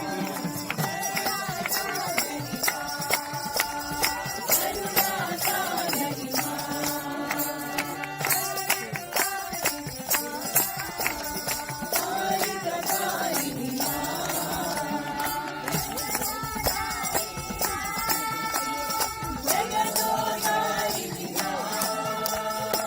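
Group singing a Hindu devotional bhajan, with jingling hand percussion keeping a steady beat.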